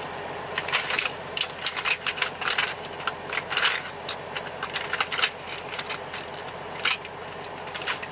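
Rummaging through a makeup bag: a quick run of small clicks, rattles and rustles of plastic makeup cases, busiest in the first five seconds, over a steady hum in the semi-truck's cab.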